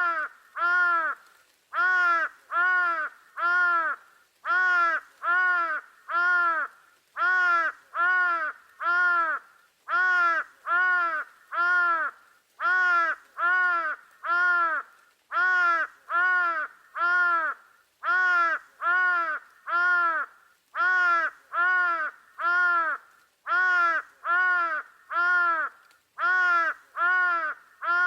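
A bird calling over and over in short, arched calls, in runs of three or four about every two and a half seconds.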